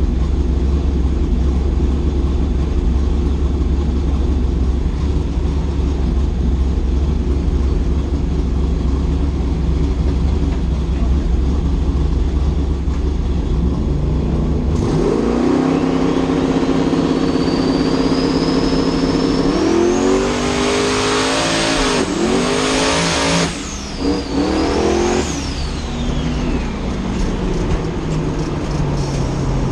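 Twin-turbo small-block Ford V8 drag car rumbling at low revs, then launching at about the halfway point and running hard down the strip. A high turbo whistle climbs with the revs, and the note drops sharply at a couple of gear shifts. Near the end the whistle and engine note fall away as it lifts off the throttle.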